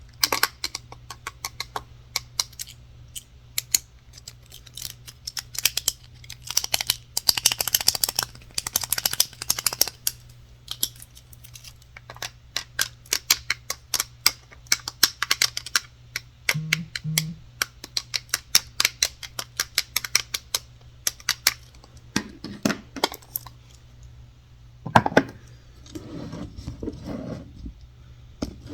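Rapid, irregular tapping on hard objects such as wood, coming in quick flurries, with a spell of scratching near the end.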